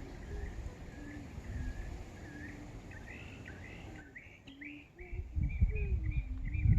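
Songbirds chirping and singing in repeated short phrases, over a low rumble of wind on the microphone that grows louder near the end.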